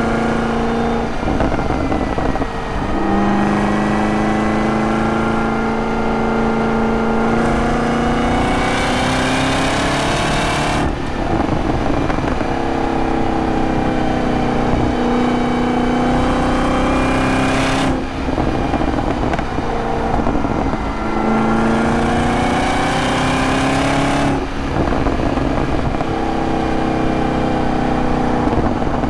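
2023 Camaro ZL1's supercharged 6.2-litre V8 accelerating through the gears of its six-speed manual. The engine note climbs in pitch, drops at each shift and climbs again, several times over, with one hard pull that gets much louder in the top end before a shift.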